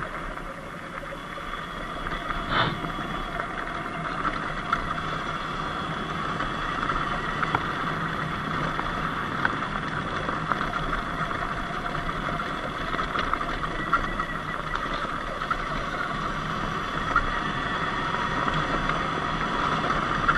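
Sur-Ron Light Bee electric dirt bike being ridden on a dirt road: a steady hum of the electric motor, chain drive and tyres, with scattered small ticks and one sharp knock about two and a half seconds in.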